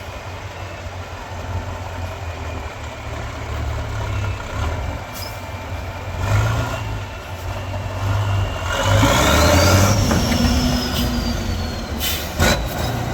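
Off-road trial truck's engine running and labouring, with a whine that rises in pitch about nine seconds in and a loud burst of hiss around ten seconds. A sharp knock comes near the end.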